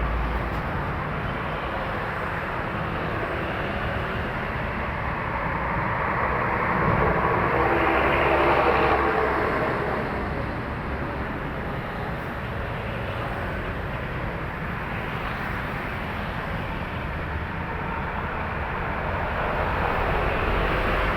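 Heavy trucks passing on a busy highway: continuous traffic noise that swells as one truck's engine goes by about eight seconds in, then builds again near the end as another approaches.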